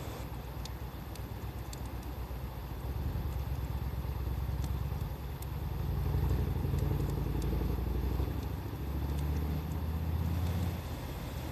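A low engine rumble from a motor vehicle, growing louder about halfway through, over a wood fire crackling with scattered sharp pops.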